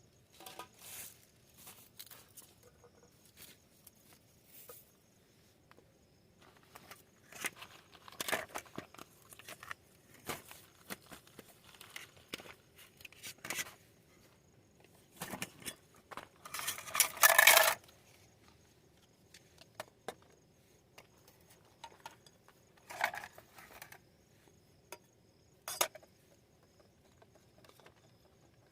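Intermittent clicks and rustling, as of things being handled, with one longer, louder rustle around the middle.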